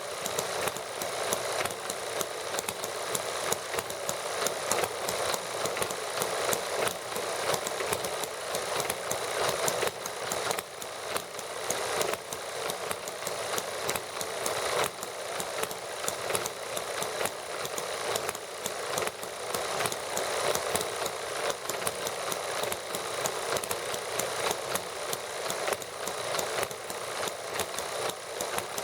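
Several small model gasoline engines running together with a fast, steady clatter of firing strokes, warming up.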